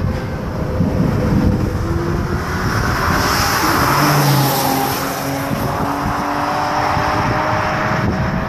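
A car driving past under power: its engine note climbs slightly in pitch, and the engine and tyre noise build to a peak about four seconds in as it goes by.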